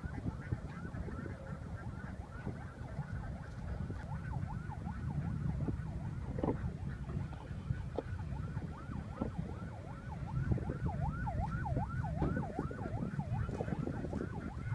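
Birds giving rapid, repeated whistled chirps that dip and rise in pitch, several a second, over a low rumble of wind on the microphone.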